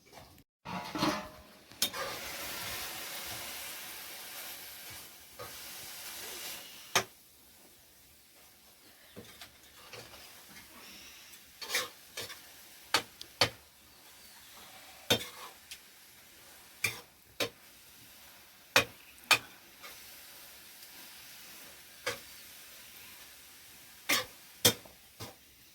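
Food sizzling in a hot pan, loudest for a few seconds after it starts, then frying more quietly while a utensil clinks and scrapes against the pan again and again.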